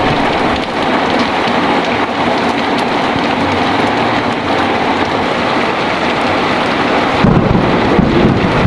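Heavy rain pouring steadily, with a low rumble of thunder rising about seven seconds in.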